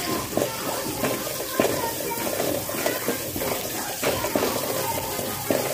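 Green chillies and ginger-garlic paste sizzling in hot oil in a metal kadai, with a perforated metal ladle scraping and clicking against the pan as it stirs. There is a sharper knock of the ladle about a second and a half in.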